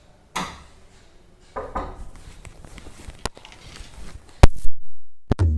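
A few scattered knocks and clatters of objects being handled, with one loud, sharp knock about four seconds in. Tabla music starts right at the end.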